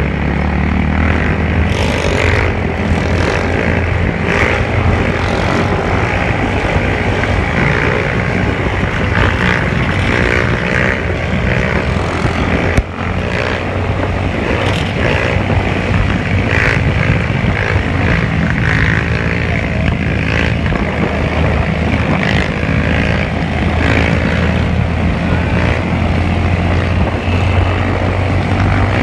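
Motorcycle engines running continuously, their pitch wavering up and down as the throttle changes. A single sharp click about 13 seconds in.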